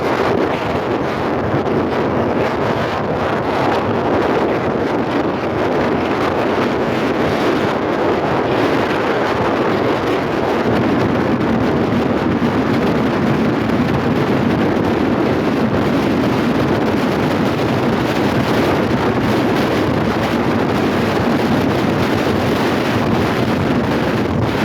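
Steady wind rushing and buffeting over the microphone from a moving car, mixed with road noise.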